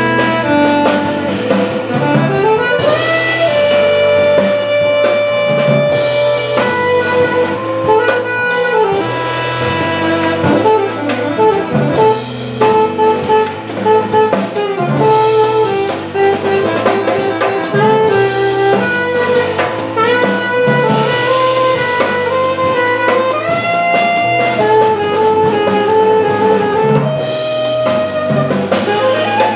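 A live jazz organ trio playing: the saxophone plays a melodic line of held notes and pitch bends over organ chords and a drum kit with cymbals.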